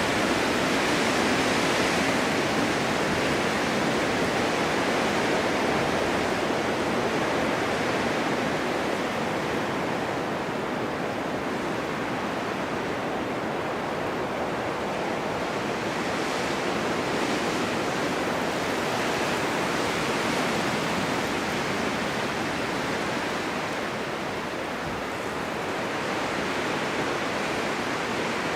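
Blizzard wind with blowing snow: a steady, dense rushing that slowly swells and eases, without distinct gusts or breaks.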